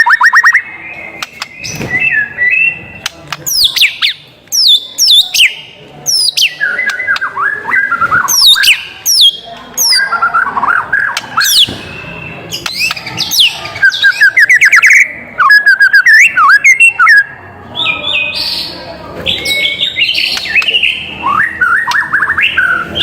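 White-rumped shama singing a loud, varied song: short bursts of rapid trills and fast sweeping whistled notes, each phrase different, with brief pauses between them.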